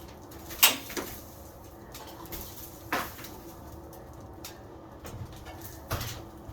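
Sharp knocks and clatter of plaster being broken out of a ceiling: four separate knocks, the loudest about half a second in.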